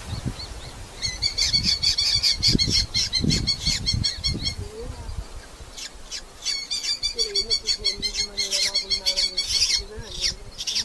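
Red-footed falcons calling in two bouts of rapid, sharp, repeated notes. Low thumps and rustling come in the first few seconds.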